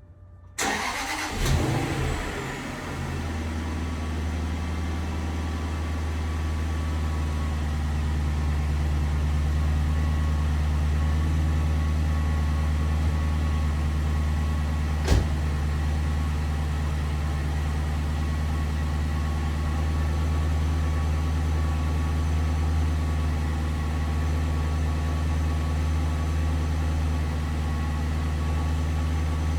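2006 Jaguar XJ Super V8's V8 engine starting from cold after sitting for more than a day: it catches with a short flare of revs, then settles into a steady idle. A single sharp click about fifteen seconds in.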